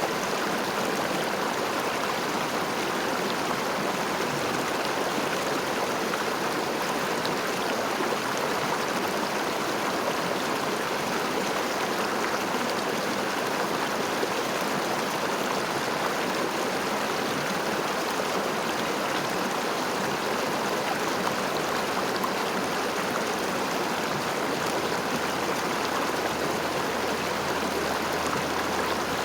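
River water flowing and babbling over stones in a steady, even rush.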